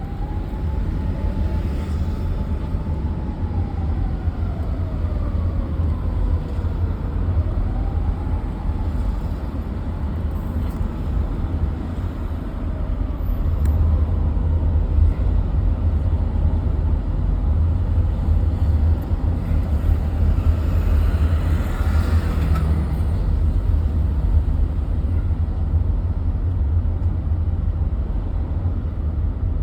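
Jaguar XJS V12 engine running smoothly on a test drive, under a steady heavy low rumble. A faint tone falls over several seconds early on and rises again as speed changes.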